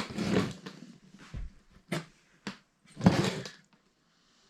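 Irregular knocks and clatter from an old engine being worked over, with two short noisy rushes and sharp knocks between them: something inside the engine is hitting.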